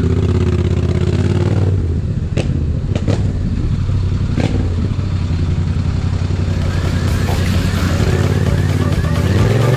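Yamaha MT-07 parallel-twin motorcycle engine running as the bike rides off, with a few sharp clicks in the first half and wind noise building from the middle. Near the end the engine revs up with a rising note.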